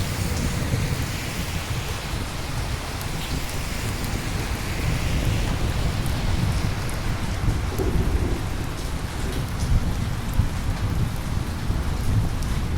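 Steady heavy rain with a low rumble of thunder rolling underneath throughout.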